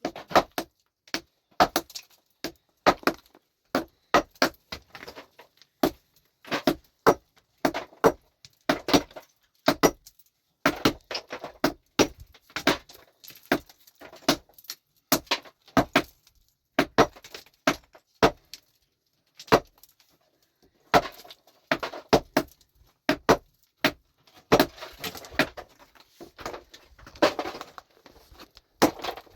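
Stones and rock being worked by hand: a long string of sharp, irregular knocks and clinks of hard stone, about one to three a second, some coming in quick clusters.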